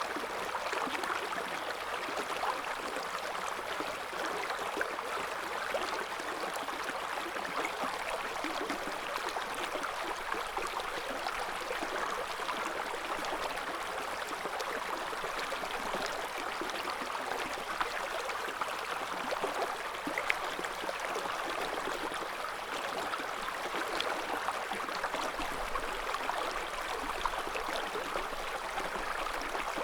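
River water flowing over rocks: a steady rushing and gurgling of the current.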